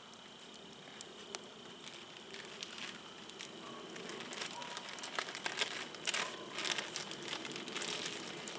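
Wood fire crackling and popping in a brick fire pit, with scattered sharp snaps that grow busier and louder about halfway through.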